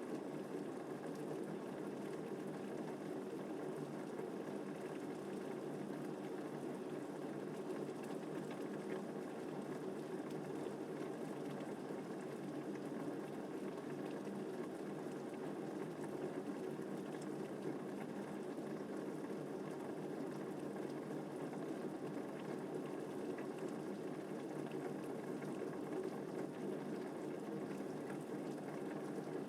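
Gentle rain falling steadily, an even, unbroken hiss and patter without changes or swells.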